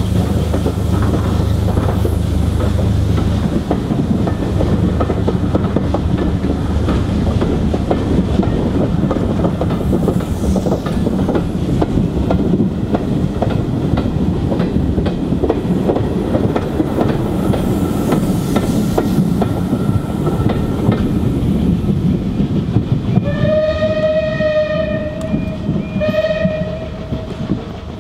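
Railway carriages of a steam-hauled train rolling past close by, their wheels clattering steadily over the rail joints, then drawing away and fading near the end. Shortly before that a whistle sounds twice, a long blast then a shorter one.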